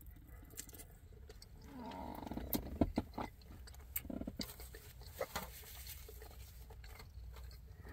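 A person chewing and eating loaded fries with sauce and steak, with wet smacking clicks of the mouth and a short hum in the throat about two seconds in.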